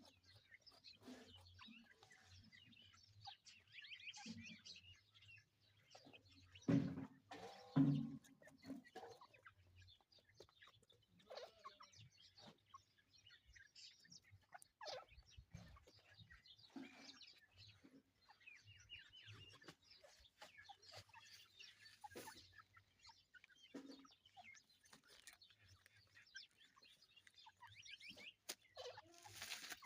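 Francolin (teetar) clucking faintly, with two louder low calls about seven and eight seconds in, over scattered high chirps of small birds.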